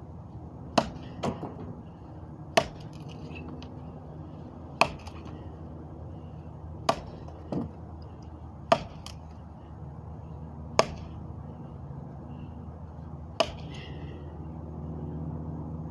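A series of about eight sharp knocks or cracks, spaced roughly two seconds apart, over a steady low hum.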